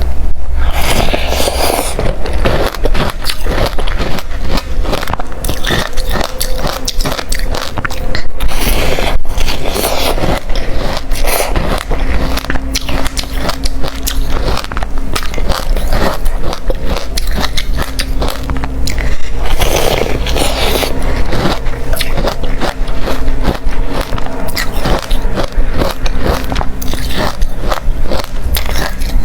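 Close-miked biting and chewing of hard refrozen crushed ice: continuous rapid crunching and cracking, with louder bursts of fresh bites every few seconds.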